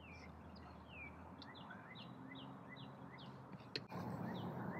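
Faint, steady birdsong: short, high, downward-sliding chirps repeated a few times a second. A single sharp click is heard near the end.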